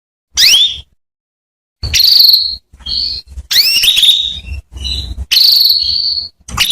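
Female domestic canary calling: a short rising whistled note, then several high, buzzy trilled phrases, each under a second long, with brief pauses between them.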